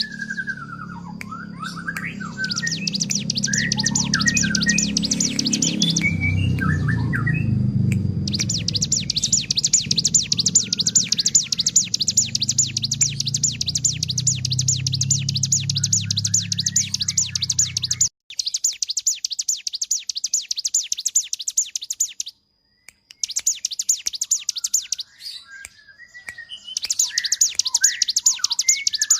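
Ciblek gunung (cigun) singing in long bouts of very fast, buzzing, run-together high notes, the rapid 'konslet' style of song. The bouts are broken by short pauses and scattered lower chirps. A low hum underneath stops suddenly about eighteen seconds in.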